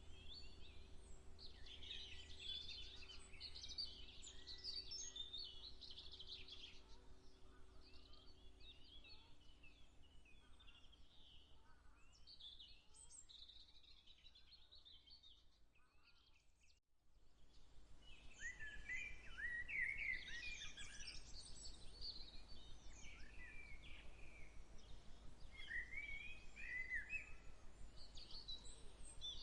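Faint chorus of small birds chirping and singing, with many short overlapping trills over a low steady rumble. The sound drops almost to nothing for a moment a little past halfway, then the birds come back louder.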